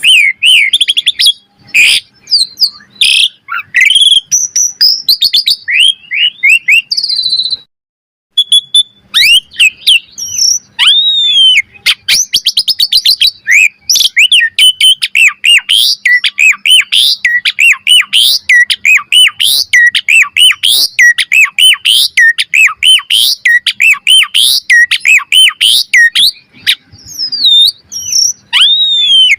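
Pied starling (jalak suren) singing energetically, a continuous varied song of quick rising and falling whistles mixed with sharp clicks and chatter. It breaks off briefly about eight seconds in, then runs on as a fast, dense stream of notes.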